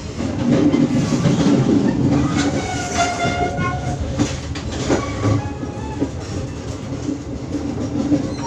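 Passenger train running at speed, its wheels rumbling and clattering over the rails, heard from on board. A brief high tone sounds about three seconds in.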